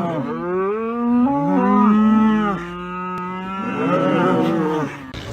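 Cow mooing: two long, drawn-out moos, the first lasting about three seconds and the second shorter, near the end.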